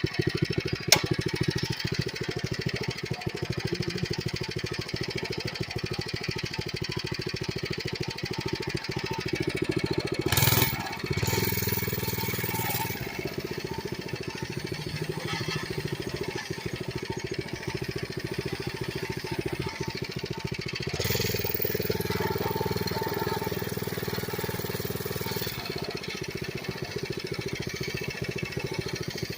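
Coleman CC100X mini bike's small single-cylinder engine running while riding, with a steady rapid firing throughout. A brief loud whoosh about ten seconds in, and the engine note rises about twenty-one seconds in.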